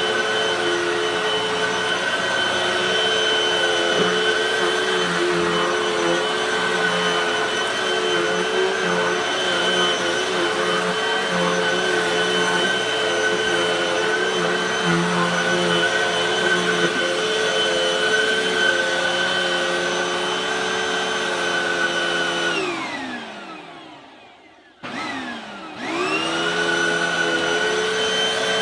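Hoover High Performance Pet upright vacuum cleaner running steadily. Near the end it is switched off, and the motor winds down with falling pitch. After a click, it starts again and its pitch rises back up to full speed.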